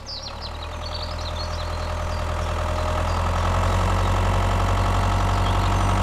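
Tractor engine running steadily, its hum growing gradually louder, with birds chirping during the first couple of seconds.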